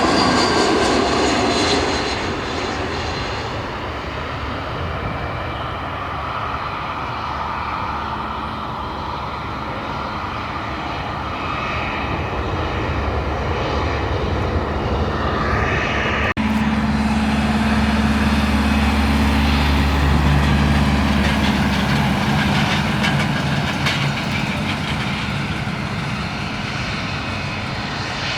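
Airliner engines: a loud passage fades over the first few seconds into a steady engine noise. About halfway through it changes abruptly to a deeper, heavier rumble with a steady low hum.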